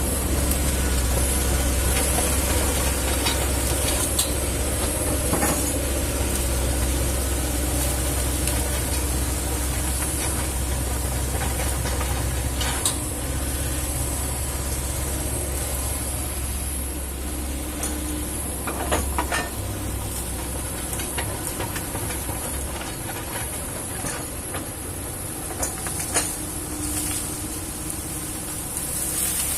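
Kobelco excavator's diesel engine running steadily as it works, with a few sharp knocks scattered through, easing off a little after the middle.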